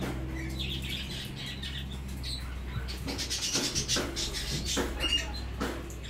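Caged small birds chirping, many short sharp calls that come thicker in the second half, over a steady low electrical hum.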